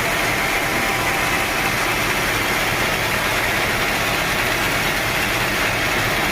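Sawmill machinery running steadily: a constant motor drone with an even hiss over it.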